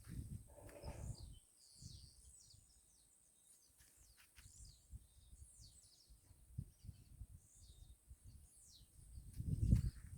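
Small birds chirping and calling in short, high notes throughout, over low rumbling that grows loudest near the end.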